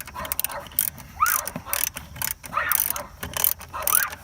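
Socket ratchet clicking as a 10 mm bolt is run in, with short squeaky chirps recurring about every second and a half.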